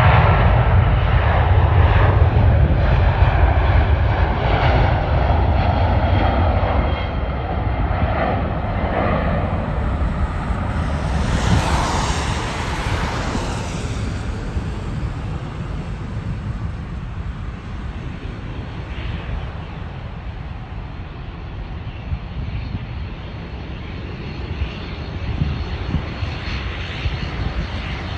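Jet airliner engines passing, a deep rumble loudest at first and slowly fading away. A brief rushing hiss rises and falls about twelve seconds in.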